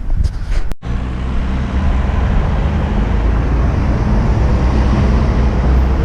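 Street traffic: a steady rumble of vehicles, heavy in the low end, after a brief drop-out in the sound just under a second in.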